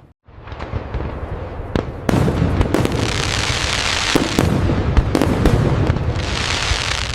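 Fireworks display: a dense, continuous rush of noise with a low rumble and many sharp bangs in quick succession, starting up just after a brief moment of silence.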